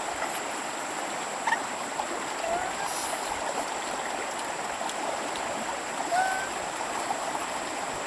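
Stream water running steadily, with a few short rising chirps over it, about two and six seconds in.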